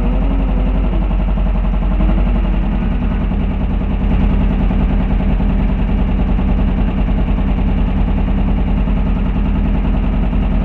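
Air-cooled 1600cc VW flat-four engine of a Class 5-1600 Baja race car running steadily, a rapid pulsing beat over a low hum, while the car stands still. The engine is running on only three cylinders.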